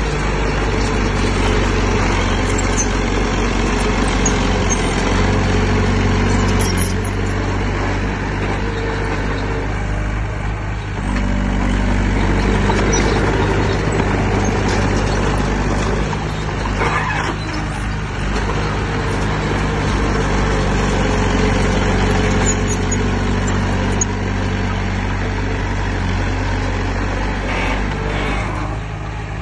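Heavy diesel engine of earthmoving machinery running steadily under load. Its pitch shifts about a third of the way in and again later on, with a brief hissing rush a little past the middle.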